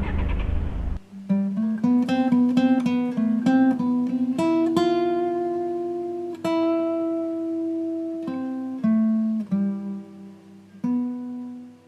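Solo acoustic guitar playing plucked single notes and chords, each note ringing and fading, as closing music. The first second holds the outdoor street noise of the recording before it gives way to the guitar.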